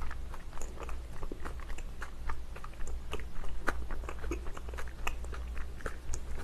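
Close-miked chewing of a spicy kimchi-filled dumpling: many small, irregular mouth and teeth clicks, with a steady low hum underneath.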